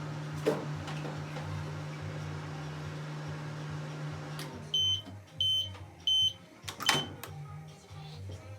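Ramtons microwave oven running with a steady hum that stops about four and a half seconds in, followed by three short high beeps marking the end of the heating cycle, then a sharp click.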